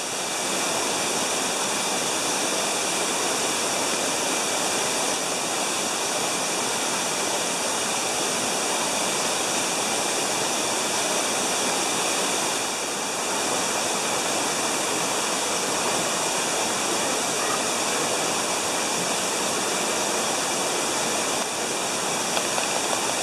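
Artificial waterfall on a mini golf course, water falling and splashing in a steady rush.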